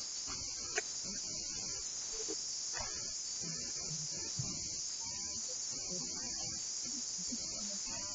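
Insects chirring steadily in a continuous high-pitched drone, with a small click about a second in.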